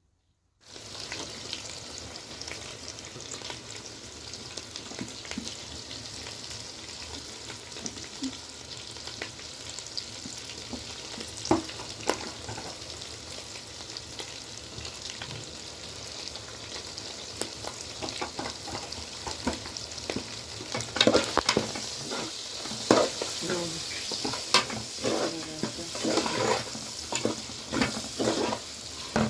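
Food frying and sizzling in a pan, a steady hiss with fine crackles, with louder knocks and scrapes of a utensil in the pan over the last several seconds.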